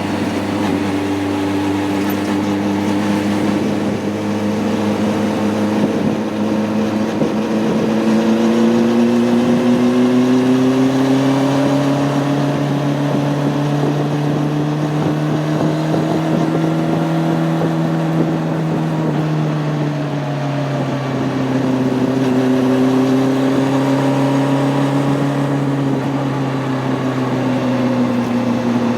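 Honda CB600F Hornet's inline-four engine running on the road, with an even rush of wind noise. Its pitch climbs between about 4 and 12 seconds in as the bike accelerates, holds, then drops back around 20 seconds in and stays fairly steady.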